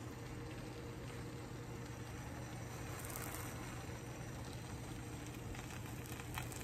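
Grilled cheese sandwiches sizzling softly in frying pans over gas burners, over a steady low hum, with a couple of faint clicks as a sandwich is handled in its pan.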